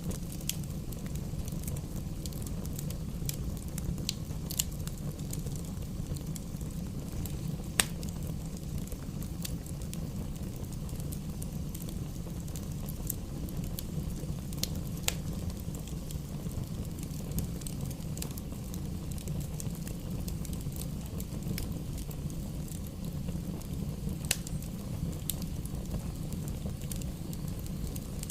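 Campfire burning, with scattered sharp crackles and pops over a steady low rumble. The loudest pops come about 8, 15 and 24 seconds in.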